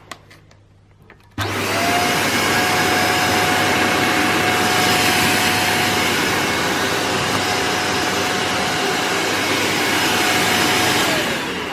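Shark Lift-Away NV340UKR bagless upright vacuum cleaner switched on about a second and a half in, its motor running steadily with a whine. Near the end it is switched off and the motor winds down, falling in pitch.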